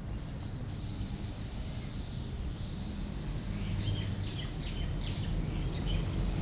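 Birds chirping, a quick run of short high calls in the second half, over a steady low outdoor rumble.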